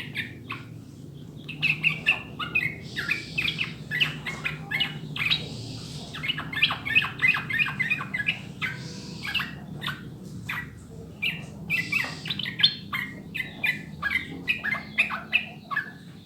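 Yellow-vented bulbul (trucukan) singing long runs of quick, chattering notes in phrases with short pauses between them, over a faint steady low hum.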